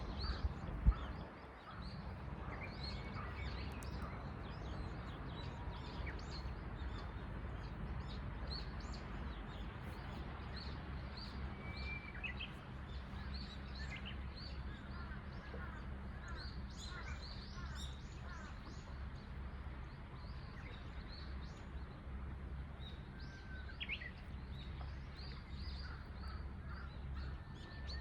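Small birds chirping and calling throughout, many short high chirps with a few clear whistled notes, over a steady low rumble. A single thump about a second in.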